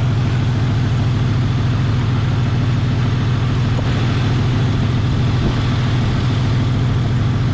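1983 Chevy S10 Blazer's six-cylinder engine idling steadily with an even low hum, running warm.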